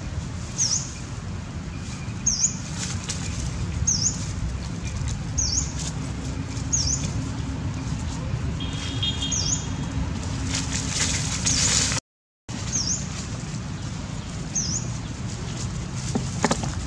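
A small bird's short, high chirp repeated about every second and a half over a steady low rumble. The sound breaks off for a moment about twelve seconds in.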